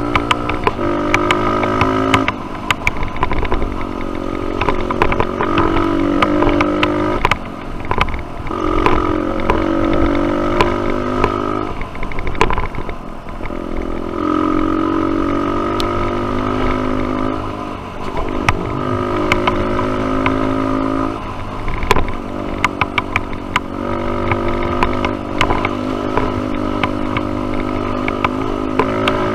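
Dirt bike engine being ridden on a trail, its pitch repeatedly climbing under throttle for a couple of seconds and then dropping back, over and over. Many sharp clicks and knocks run through it.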